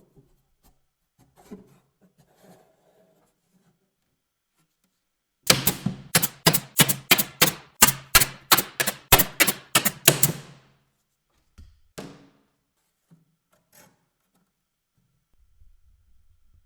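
A quick, even run of about seventeen sharp hammer-like strikes on wood, roughly three or four a second, starting about five seconds in and lasting about five seconds, with a few faint knocks before and after.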